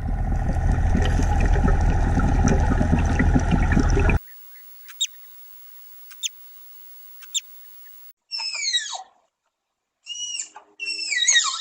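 A steady rushing noise that cuts off suddenly about four seconds in. Then three short high chirps about a second apart, followed by bursts of repeated falling bird calls.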